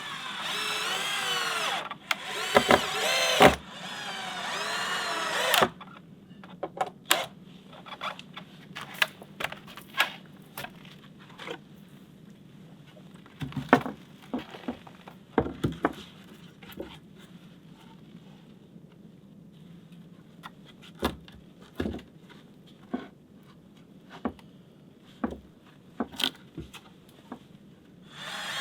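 A power drill runs in two bursts, its pitch wavering as it works. A string of scattered knocks and clicks of wood and tool handling follows.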